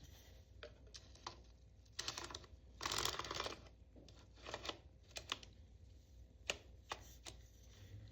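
Light handling noise: scattered soft clicks, a short rustle about three seconds in, and a few sharper clicks later on.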